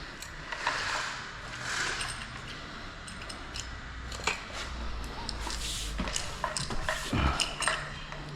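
Light metal clicks and clinks with a few short swishes, from utility knife blades being handled and changed in their knives.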